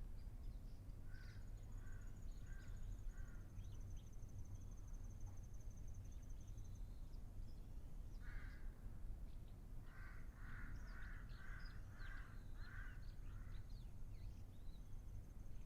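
A bird calling in two runs of short repeated notes, about two a second: four early, then one more and a run of six in the second half. A faint, steady, high-pitched insect buzz comes and goes above it.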